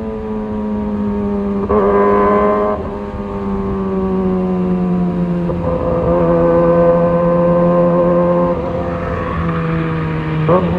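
Kawasaki ZX-25R's inline-four engine running on the move, its note slowly falling in pitch. It gets louder under throttle briefly about two seconds in and again from about five and a half to eight and a half seconds, with a short rev blip near the end.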